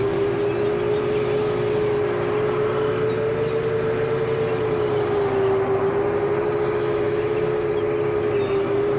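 FPV quadcopter's four T-Motor 2207.5 brushless motors with Gemfan tri-blade propellers whining steadily in flight, the pitch drifting slightly up and down with throttle.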